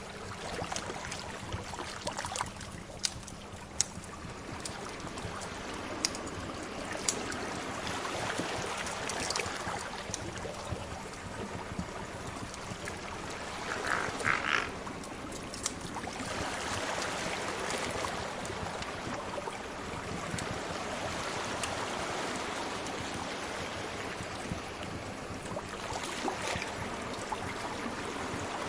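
Sea waves washing in a steady, slowly swelling rush, with a wood fire crackling in scattered sharp pops over it. A short bird call sounds about halfway through.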